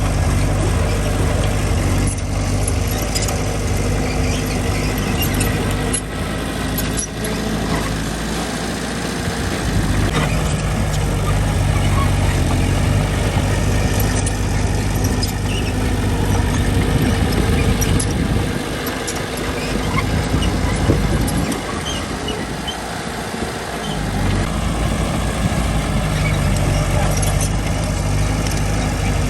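Diesel engine of heavy construction machinery running continuously, its note easing off and coming back a few times as the load changes, with occasional sharp knocks and clanks.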